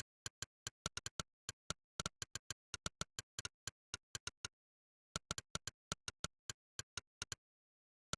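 Monkeytype's synthetic 'click' keystroke sound, one sharp click per key pressed, in an uneven typing rhythm of about four a second with a short break just past the middle.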